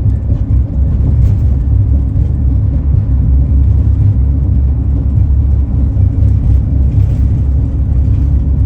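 Steady low road rumble of a vehicle driving at a constant pace.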